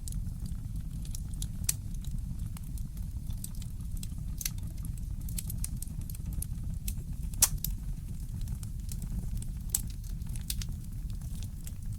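Wood fire crackling in a fireplace: irregular sharp pops and snaps over a steady low rumble, with one louder pop about seven and a half seconds in.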